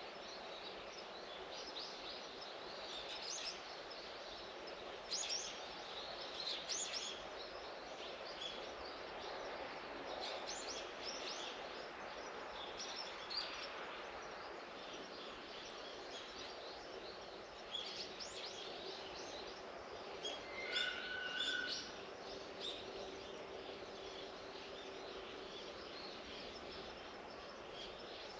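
Birds chirping on and off over a steady outdoor background hiss, with a short run of clearer, more tuneful calls about two-thirds of the way through.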